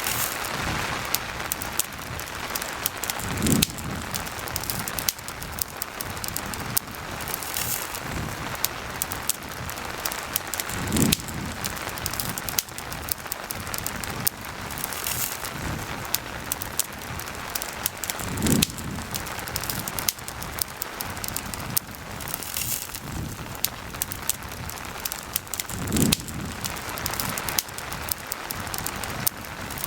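Steady rain hissing together with a crackling campfire: many small sharp pops over the even wash of rain. A short low thump comes four times, evenly about every seven and a half seconds.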